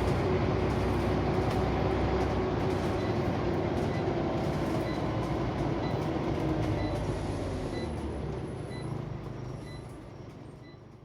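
Steady running noise inside a Scania OmniCity single-deck bus: a diesel engine and road rumble, with a faint light regular ticking over it. The sound fades away over the last few seconds.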